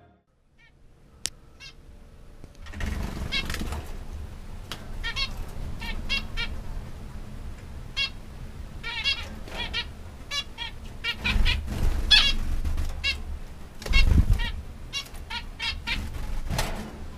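Zebra finches calling: many short, nasal, honk-like chirps repeated in quick series, with bursts of low rumble under them now and then.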